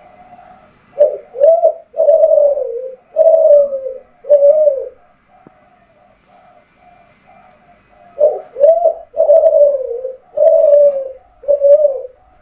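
Derkuku Kelantan (a spotted dove bred for singing) cooing: two phrases of five notes each, two short notes followed by three longer, falling ones.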